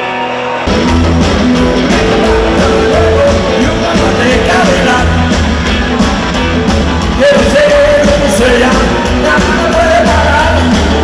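Loud live rock and roll band playing with a singer, a heavy bass beat kicking in about half a second in.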